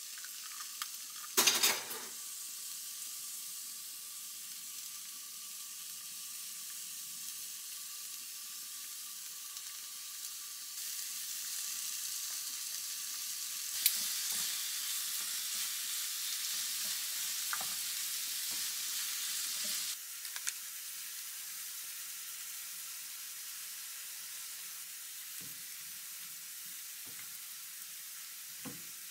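Oil sizzling steadily as julienned carrots and an egg fry in a hot pan, stirred with chopsticks. There is a loud clatter about a second and a half in, and the sizzle grows louder for several seconds midway.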